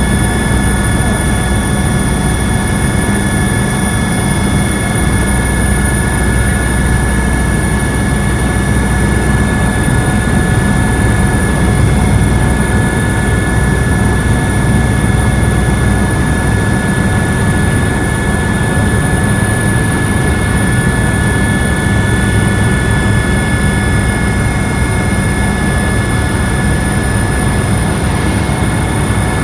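Helicopter in flight: a steady, loud drone of engine and rotor, with constant high whining tones over it and no change in pitch or level.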